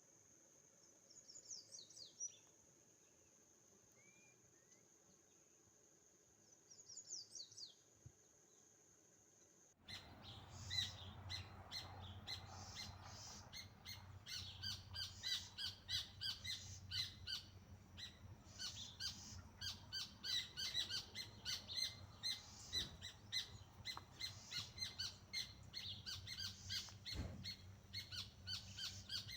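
A steady high insect trill with two short runs of falling bird calls. About ten seconds in it switches abruptly to a dense chorus of many birds chirping rapidly over a low rumble.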